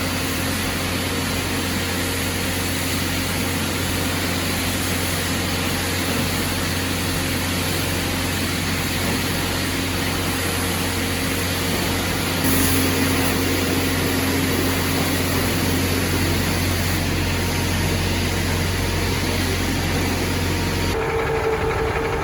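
A heavy truck's diesel engine runs steadily, with a low hum under a loud, even hiss. The sound changes abruptly about twelve seconds in and again near the end.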